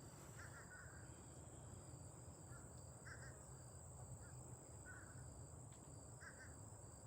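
Very faint outdoor ambience: a steady, high-pitched insect drone with short, faint calls repeating about once a second.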